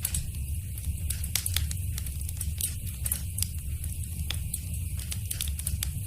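Wood fire burning in a fireplace: frequent irregular sharp crackles and snaps over a steady low rumble of the flames.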